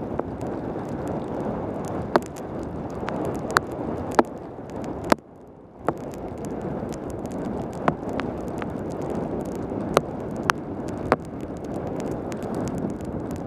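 Wind rushing over a helmet-mounted camera on a mountain bike descending a wet road in rain, with tyre and rain noise and irregular sharp clicks and knocks throughout. The rush drops away briefly about five seconds in.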